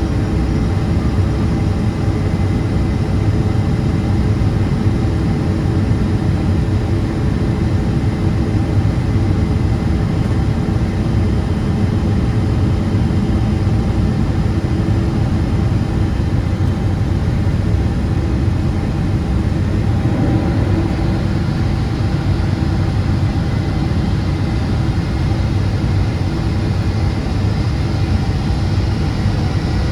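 Steady in-cabin noise of a Boeing 777-200ER on approach with landing flaps extended: a dense low rumble of airflow and its GE90 engines. About 20 seconds in, the sound brightens with added hiss.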